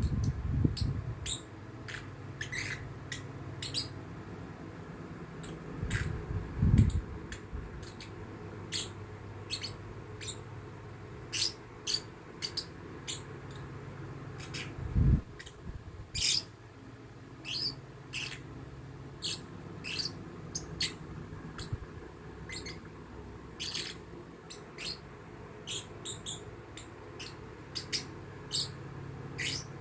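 Young lovebird chirping: short, sharp, high-pitched calls repeated irregularly, roughly one to two a second. A few low thumps come near the start, about six seconds in and about fifteen seconds in.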